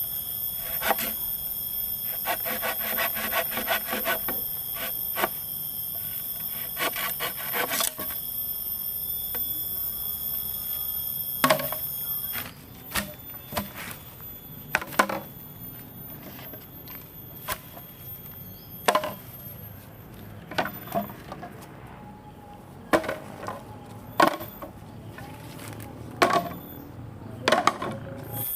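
Wood being worked by hand with tools: runs of quick rubbing or sawing strokes in the first part, then separate sharp knocks of wood every second or two.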